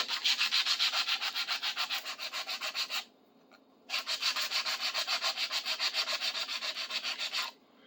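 Sandpaper rubbed quickly back and forth over a rusty steel screwdriver to clean off surface rust, in fast even strokes of about six a second. It stops for about a second near the middle, then carries on.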